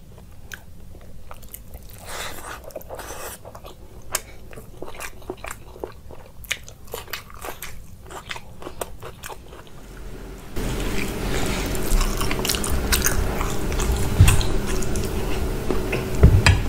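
Close-miked eating: a person chewing and biting mouthfuls of rice and mutton curry eaten by hand, with many short mouth clicks. About ten seconds in, the sound jumps to a louder, noisier recording of another person chewing.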